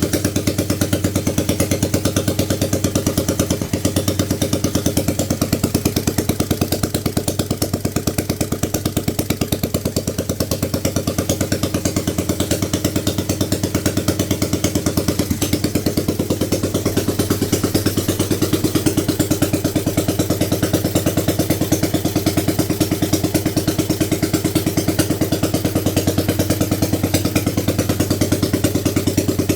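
1938 BMW R35's single-cylinder four-stroke engine idling steadily with a fast, even beat, the freshly rebuilt engine being run to test it for oil leaks.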